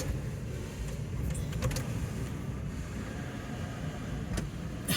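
A stuck car sunroof being worked shut: a few sharp clicks over a steady low rumble.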